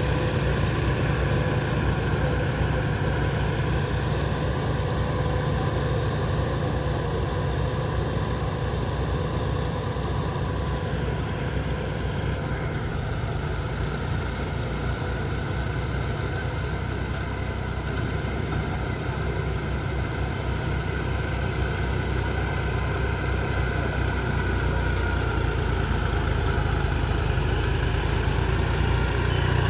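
Tractor diesel engine running with a steady low drone, easing off slightly midway and picking up again near the end.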